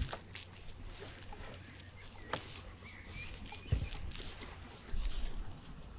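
A few scattered sharp clicks and light knocks, with several faint short high chirps in the middle and low dull thumps near the end.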